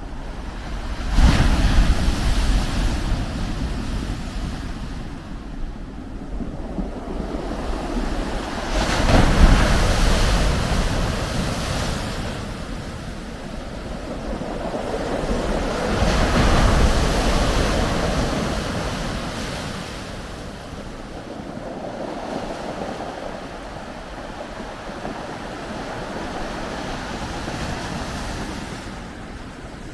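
Wind and Lake Ontario waves breaking on the shore in a blizzard: a loud, rushing noise that swells in three big surges, about a second in, about nine seconds in and about sixteen seconds in, then eases off.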